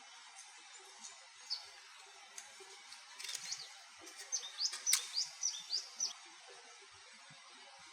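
A small bird chirping a quick run of short, high notes in the middle of the stretch, over a steady rush of flowing river water.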